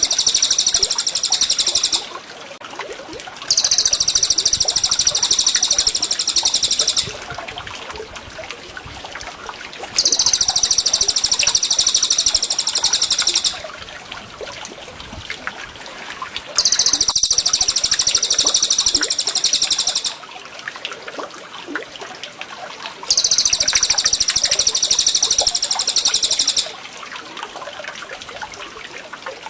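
Recorded songbird song played as a masteran loop: dense, high, rapid chirping phrases of about three and a half seconds, repeated five times at even spacing. A steady trickle of running water lies underneath.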